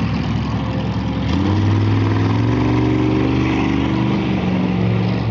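Monster truck engine revving: it picks up to higher revs about a second in and is held there loudly.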